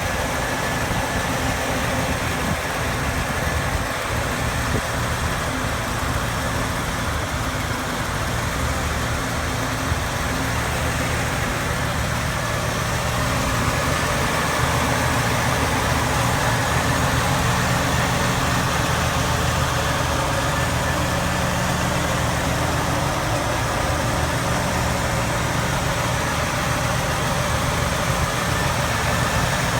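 1974 Chevrolet Malibu's engine idling steadily, becoming slightly louder about halfway through.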